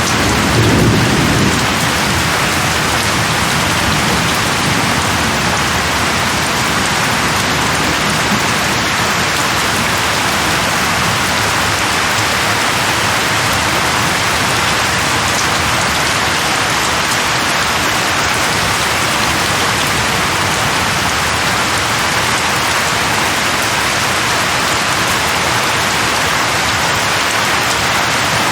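Steady rain falling in an even hiss, with a brief low rumble of thunder about a second in.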